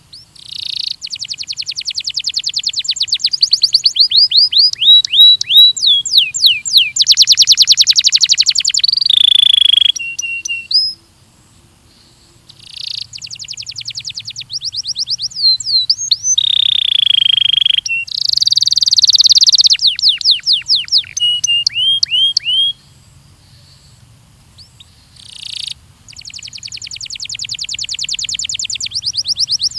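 Belgian canary singing long phrases of fast trills and rolls mixed with quick downward-sliding whistled notes, with two short pauses about 11 and 23 seconds in.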